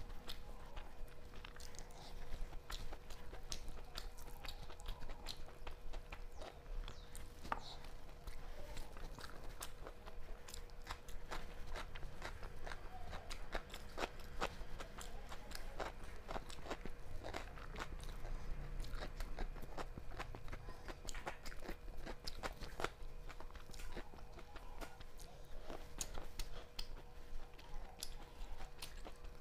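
Close-up eating sounds of a person eating rice and chicken curry by hand: chewing with many scattered small clicks and crunches, and fingers working the food on a steel plate. A faint steady hum sits underneath.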